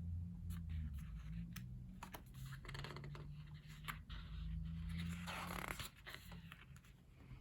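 Quiet handling of a thick paperback photobook being opened: light paper rustling and scratching with scattered small clicks, a longer rustle about five seconds in. A steady low hum runs underneath.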